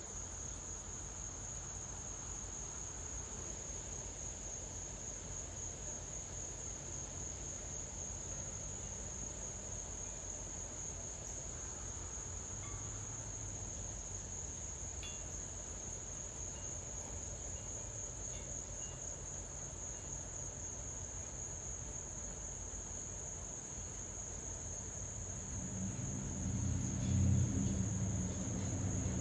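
Crickets trilling steadily in one continuous high tone. Near the end a low rumble swells up and becomes the loudest sound: the engines of a Boeing 737-900 airliner approaching overhead.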